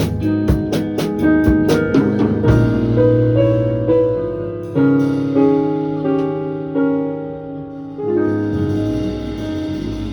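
Piano accompaniment playing chords, with a quick drum beat in the first couple of seconds that drops out, leaving ringing piano chords that change every half second or so.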